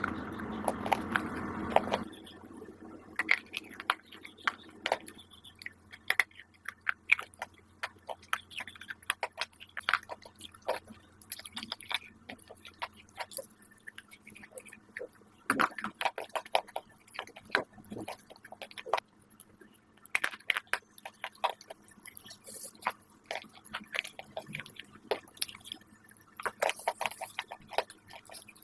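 Close-miked crunching: bites and chewing of crisp food, a run of sharp irregular crackles. The first two seconds are louder and denser.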